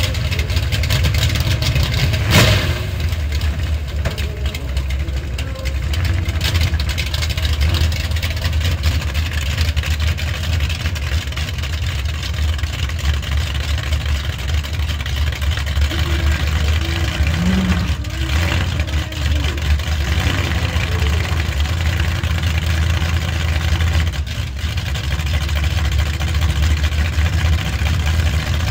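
Drag-racing car engines running with a steady low rumble, with a single sharp crack about two seconds in.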